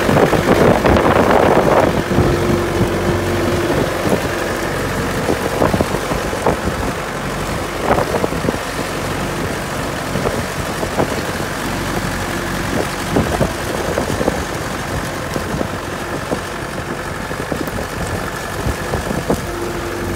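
Tractor engine running steadily, a little louder for the first two seconds, pulling a carrot-digger blade through the soil to loosen the carrots.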